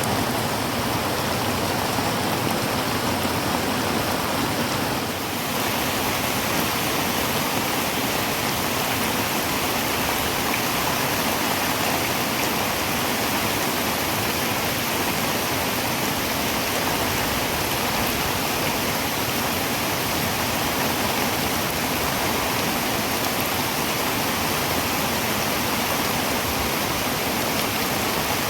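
Heavy rain falling on a tin roof: a steady, dense hiss, briefly a little softer about five seconds in.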